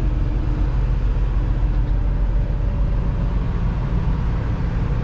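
Diesel engine of a 2021 Freightliner Cascadia semi truck running at low speed while manoeuvring, heard from inside the cab as a steady low hum.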